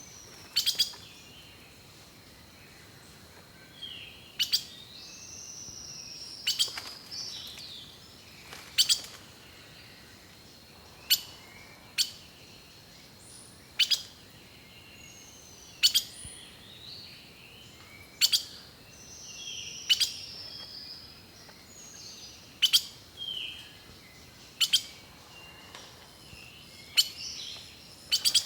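Birds singing and chirping: short calls and whistles, some sliding down in pitch. Sharp clicks, the loudest sounds, come about every two seconds.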